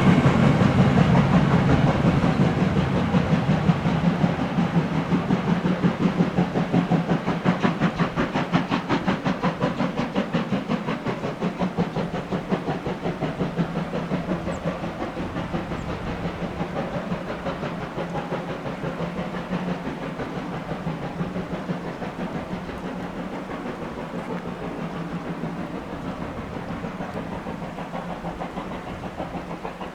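Sound decoder of a Roco H0 model BR 01 steam locomotive giving a rapid, steady chuffing as the model runs, with hiss and rail noise, gradually fading away.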